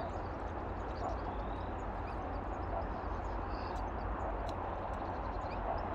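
Steady outdoor background noise: the even rumbling hiss of distant motorway traffic, with a few faint bird chirps.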